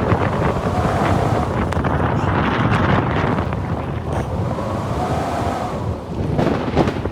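Snowstorm wind blowing hard and buffeting the microphone, with a faint howling tone that rises and falls.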